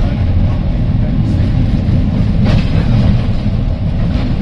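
Heritage electric tram running along its line, heard from on board: a steady low rumble of wheels on rails and running gear, with one sharp knock about two and a half seconds in.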